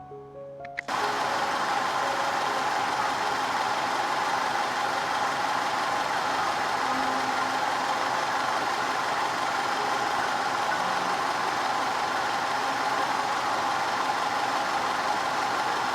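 Audi 2.0 TFSI turbocharged four-cylinder petrol engine idling steadily, heard close up. It cuts in suddenly about a second in, after a short music jingle.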